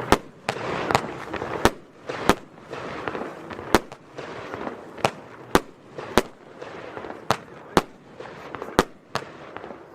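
Röder Goldblume F2 firework battery firing, shot after shot: about fifteen sharp bangs at uneven intervals, roughly one to two a second, with a rushing noise between the reports.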